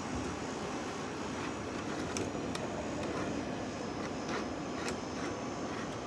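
Arctic King 5000 window air conditioner, fitted with a GMCC rotary compressor, running with a steady even noise, with a few faint ticks in the middle; it has only just been started and is not yet blowing cold.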